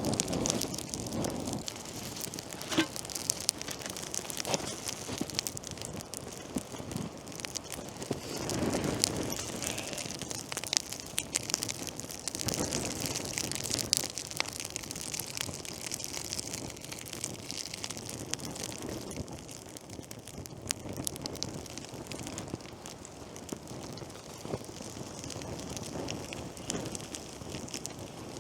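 Wood campfire crackling: a steady hiss with many small, irregular pops and snaps.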